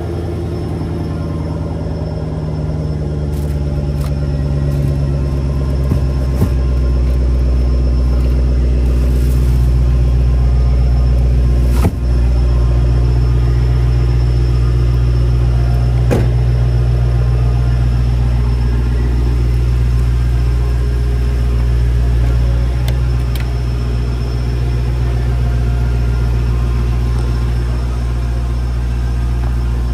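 Supercharged 6.2-litre V8 of a Dodge Challenger SRT Demon 170 idling steadily, a deep even rumble. A couple of sharp knocks from handling the car come through about twelve and sixteen seconds in.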